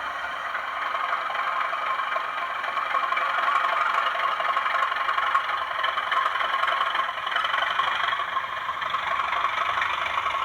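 Class 37 diesel engine sound from a model locomotive's DCC sound decoder, played through its small onboard speaker as the loco gets under way, thin and tinny with almost no bass, building somewhat over the first few seconds. The owner finds the stock speaker does not sound as good as expected once she is running.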